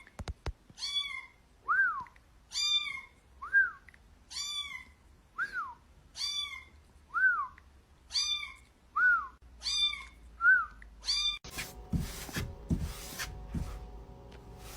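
A cat meowing over and over, about one meow every two seconds. Between the meows comes a thinner, higher call that rises and falls, like a whistle. Near the end this gives way to rubbing and knocking noises with a faint steady hum.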